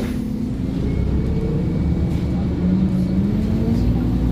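Scania OmniCity N230UD double-decker bus's engine running under way, a steady drone that drops in pitch a little past halfway and then climbs again.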